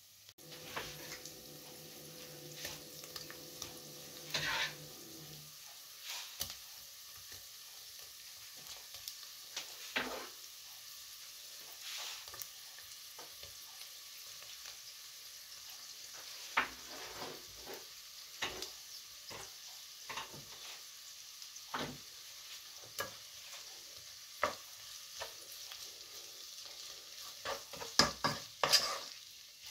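Chopped fresh sausage sizzling as it fries with softened onion in oil in a non-stick pot, with scattered clicks and knocks of pieces dropping in and a wooden spoon stirring against the pot, the knocks coming thick and loud near the end. A low steady hum runs through the first five seconds or so.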